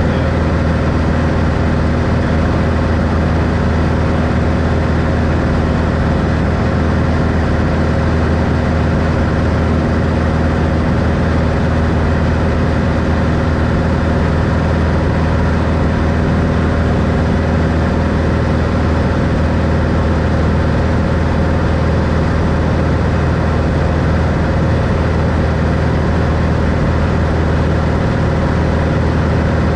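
Engine and propeller of a 1964 Cessna 182 Skylane, a six-cylinder Continental O-470, running steadily at one unchanging pitch, heard from inside the cabin.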